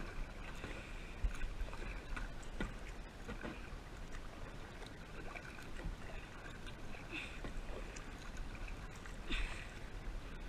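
Kayak paddle strokes dipping and splashing in the water, with water running along the hull and a steady low rumble on the small camera's microphone. A few splashes stand out, the loudest about nine seconds in.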